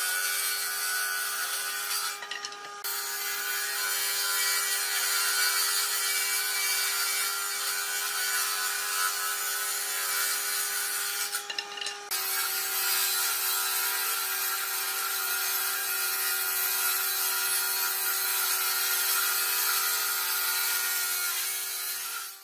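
A small electric power tool running steadily and working wood: a constant motor whine under a dense cutting or abrading noise. The noise drops out briefly about two seconds in and again about halfway through.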